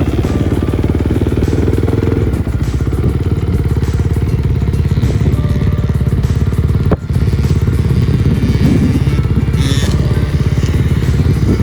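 Dirt bike engine running steadily while being ridden, with a brief dip about seven seconds in.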